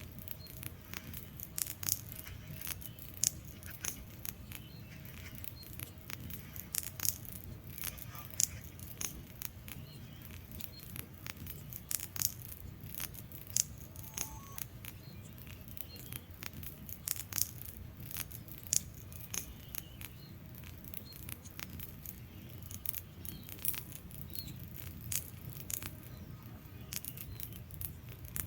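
Wood fire burning in a fireplace: a steady low rumble of the flames with irregular sharp crackles and pops from the logs, several a second.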